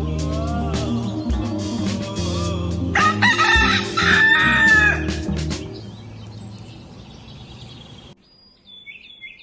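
A rooster crowing loudly over background music from about three to five and a half seconds in. The music then fades out, and a few short high bird chirps come near the end.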